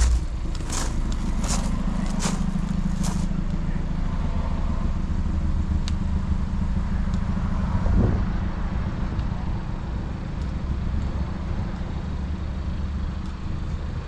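Kia Ceed GT's 1.6 T-GDI turbocharged four-cylinder petrol engine idling with a steady low hum. A few sharp clicks, about one a second, come in the first three seconds, and a single thump about eight seconds in.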